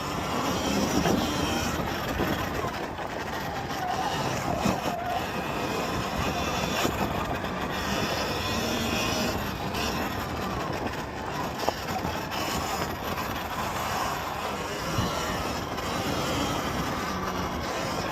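Sur-Ron Ultra Bee electric dirt bike being ridden: a faint motor whine rising and falling with the throttle over a steady rushing noise.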